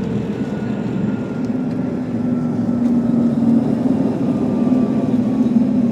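Cabin noise inside a Bombardier CRJ200 during landing: a steady rush from the airframe and its rear-mounted turbofan engines, with a faint engine whine slowly falling in pitch. The noise grows a little louder about two seconds in.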